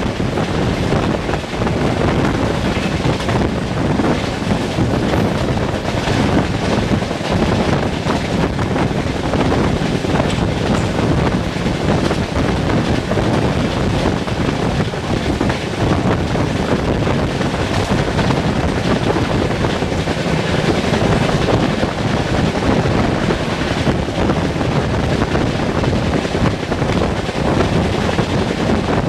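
Wind rushing past the microphone, mixed with the steady rumble of wheels on the rails, from the open window of a coach on an express train running at full speed.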